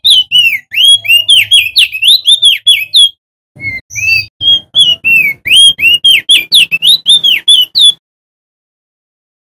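Male opior jambul (crested heleia) singing: a loud, rapid string of whistled notes, each sweeping up or down, in two bursts with a short break between them, stopping about eight seconds in.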